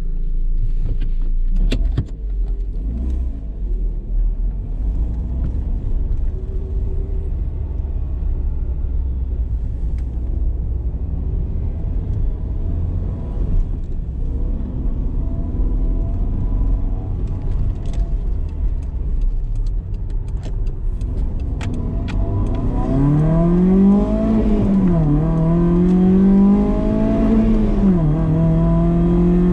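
BMW E30 318is four-cylinder engine running at low revs with a low rumble, with a few sharp clicks about two seconds in. Near the end it accelerates: the pitch climbs, drops at two upshifts, then holds steady.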